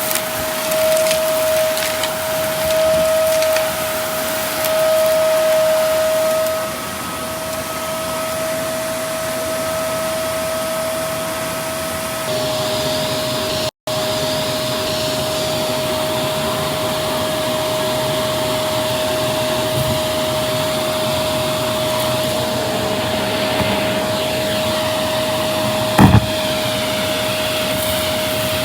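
Vacuum cleaner running with a steady high-pitched motor whine over a rush of air. Its loudness swells and dips in the first several seconds as it is worked across the floor. There is a brief sharp knock near the end.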